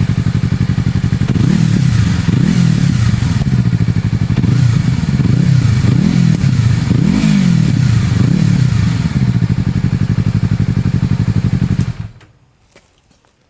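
Yamaha MT-25's 250 cc parallel-twin engine, breathing through an aftermarket megaphone muffler. It idles, is blipped through a series of short revs that rise and fall back, settles to idle again, then is switched off near the end and stops abruptly.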